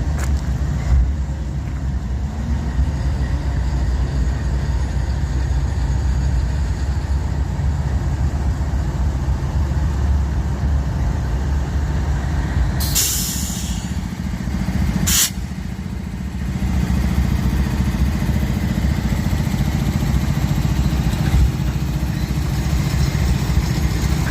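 GE CW44AC diesel-electric locomotives running with a steady low engine rumble. About thirteen seconds in comes a short hiss of air, then a sharp clank about two seconds later.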